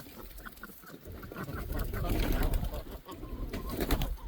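Chickens clucking quietly, with scattered light clicks and a low rumble in the middle.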